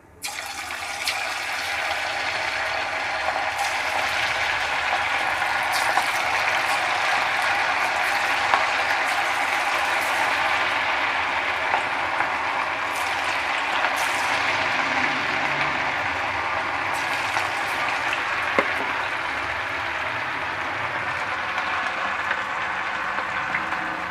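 Marinated chicken pieces deep-frying in hot oil in a kadai: a loud, steady sizzle with scattered crackles and pops. It starts suddenly as the pieces go into the oil.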